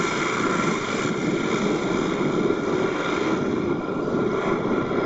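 Aircraft engines running steadily: a dense rush of noise with several high, held whining tones over it.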